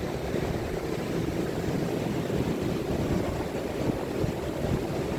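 Steady noise of ocean surf breaking on the beach, heaviest in the low end with a constant rumble.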